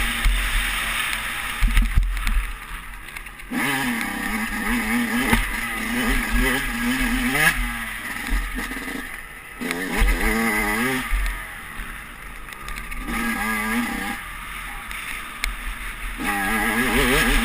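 Motocross dirt bike engine revving in several bursts, its pitch climbing and falling as the throttle is opened and closed, over a low wind rumble on the helmet-mounted camera's microphone.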